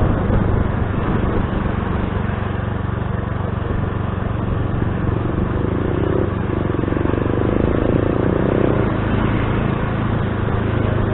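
Motor scooter engine running steadily while riding, with a constant rush of road noise. A second, higher engine sound joins for a few seconds midway.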